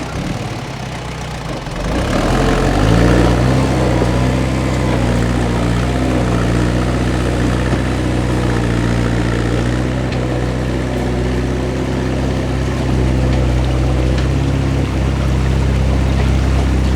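A vehicle engine running, picking up revs about two seconds in and then holding a steady drone.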